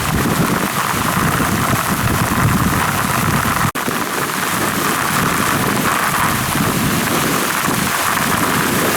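Steady heavy rain falling. The sound cuts out for an instant a little before halfway, then carries on.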